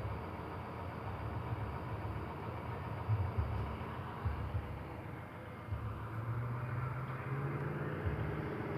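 Low, steady rumble from a bus engine idling, with thumps of amplified bar music coming through from a distance.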